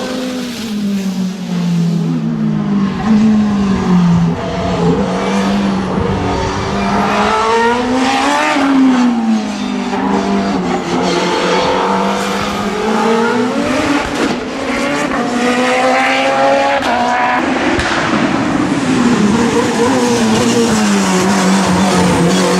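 LobArt LA01 Mugen hillclimb racing car's engine at high revs, repeatedly rising in pitch and dropping back through gear changes and lifts, with loud exhaust bangs.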